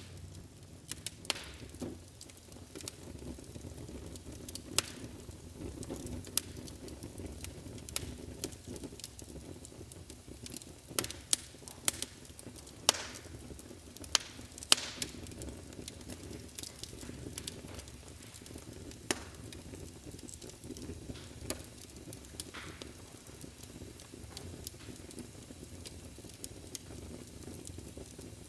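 Wood fire burning in a fireplace: a steady low rush of flames with irregular sharp crackles and pops from the burning logs, a cluster of louder pops around the middle.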